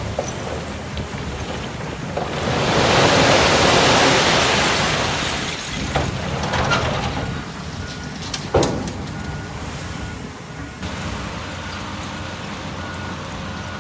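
Heavy diesel construction machinery running with a low steady drone. A loud rushing noise builds and fades over about three seconds, followed by a few sharp knocks. From about seven seconds a reversing alarm beeps over and over.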